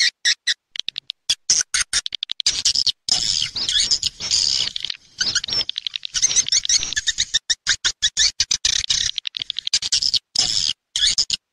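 Swiftlet call-sound recording: rapid, high twittering chirps of swiftlets in short, choppy bursts with brief gaps. It is the lure call played from a swiftlet house to draw birds in to roost and nest.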